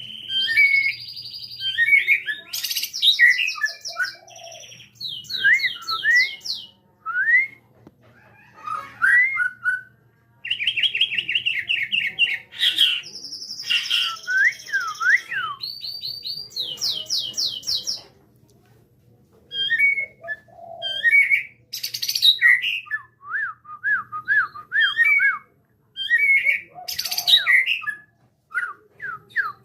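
Male white-rumped shama (Bornean murai batu) in full song: a varied, loud run of clear whistles, fast rattling trills and quick rising and falling notes, with a short break about two-thirds of the way through.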